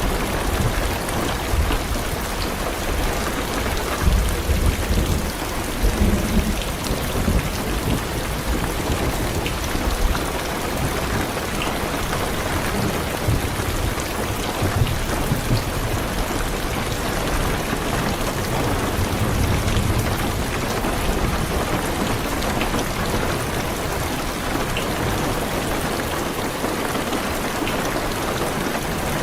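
Heavy rain drumming steadily on a car's roof and windows, heard from inside the car, with low thunder rumbling a few seconds in and again around the middle.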